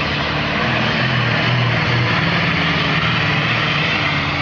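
Turbocharged engine of a tractor-pulling tractor running hard under load during a pull: a steady, loud engine note with heavy exhaust noise, building slightly about a second in.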